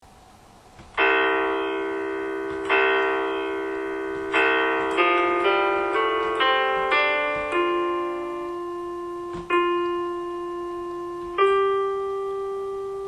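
Solo piano music: a near-silent first second, then three sustained chords followed by a run of quicker single notes and a few slower held notes.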